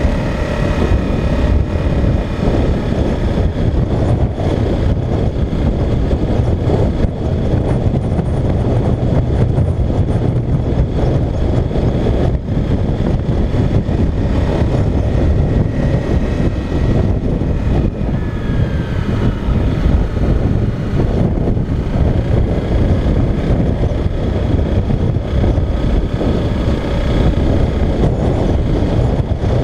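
Motorcycle engine running steadily while riding, under a heavy, constant rush of wind noise on the mounted camera's microphone.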